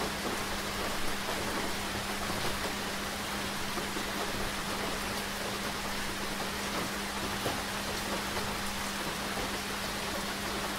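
Steady rain falling, an even hiss with scattered drop ticks, over a constant low hum.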